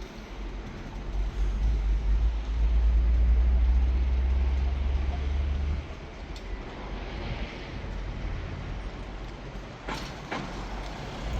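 Road vehicle noise: a deep rumble that drops away about halfway through, then a passing hiss that swells and fades. Two sharp clicks come near the end.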